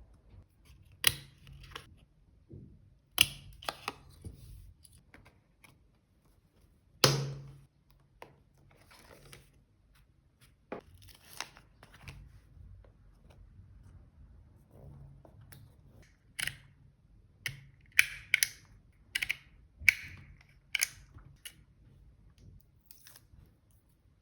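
Stationery and paper being handled while decorating a journal: scattered sharp taps and clicks, a louder knock about seven seconds in, and a quick run of short clicks in the last third.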